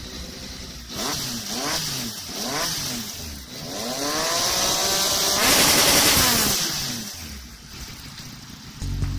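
Motorcycle engine revving: a few quick throttle blips, then a longer rev up and back down, loudest in the middle. Music starts near the end.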